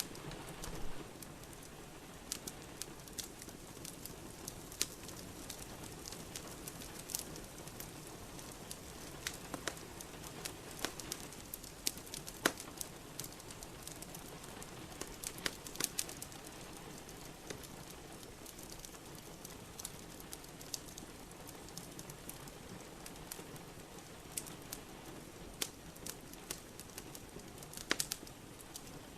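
Steady rain hiss with a wood fire crackling in a fireplace, sharp irregular pops and snaps scattered every second or so.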